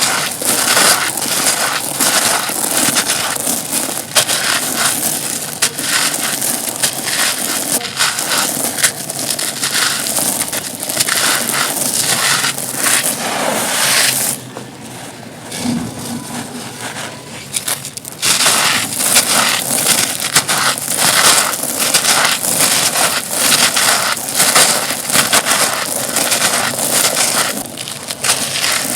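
Dry, dusty, stone-textured chunks being crushed and crumbled by hand: a continuous stream of sharp crunches and crackles, easing into a quieter spell of a few seconds about halfway through.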